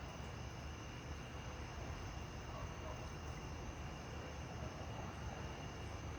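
Steady outdoor storm-night ambience: a continuous high insect drone, like crickets, over a low steady rumble.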